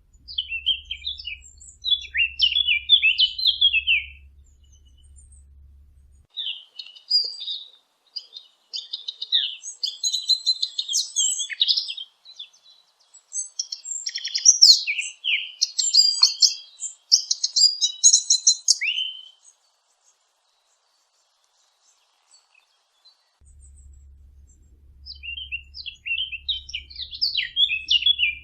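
Small birds chirping and twittering in bouts of rapid high notes, stopping for a few seconds about two-thirds of the way through before starting again.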